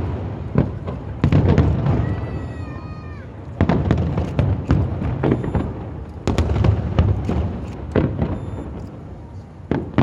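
Fireworks going off in quick succession: deep booms every second or so with crackling. A brief wavering whistle comes about two seconds in.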